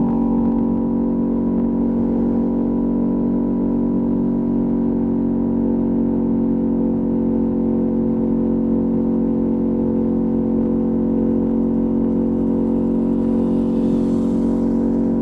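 Ducati Panigale V2S V-twin engine through a Termignoni exhaust, running at steady, unchanging revs.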